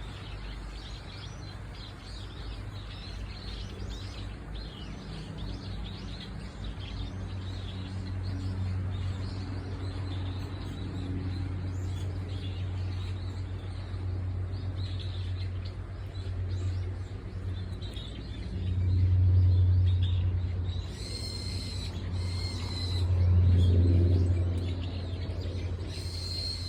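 Wild birds chirping and calling, with a few clearer calls near the end, over a steady low rumble that swells loudly twice in the second half.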